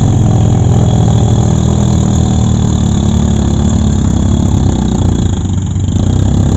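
Dump truck's diesel engine running steadily with a deep, even rumble.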